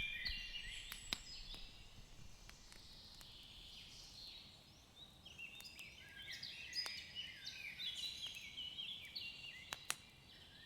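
Songbirds chirping in quick runs of short falling notes, thinning out briefly in the middle, with a few sharp pops like crackling firewood.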